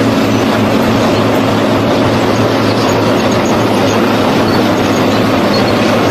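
Heavy tractor engine running steadily under load, with the broad rumble and clatter of plowing machinery.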